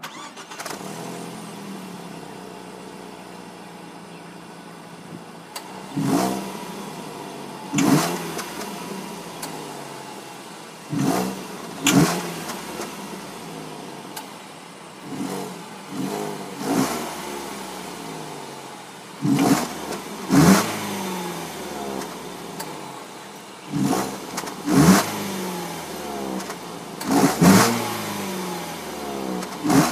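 2013 Ford Focus Titanium engine, fitted with an aftermarket air intake, starting and settling to idle, then revved in short, sharp throttle blips, often two in quick succession, each dropping straight back to idle.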